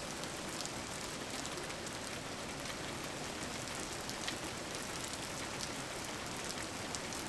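Steady rain: an even hiss of falling rain with scattered louder drop ticks.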